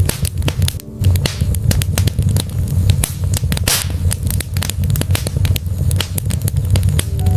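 Wood fire in a fireplace crackling, with many sharp pops and snaps over a steady low rumble of burning logs. A short hiss comes a little after three and a half seconds.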